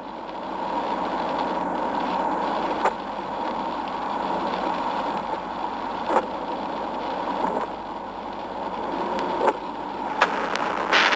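Steady road and engine noise of a moving car heard from inside the cabin, with a few sharp clicks.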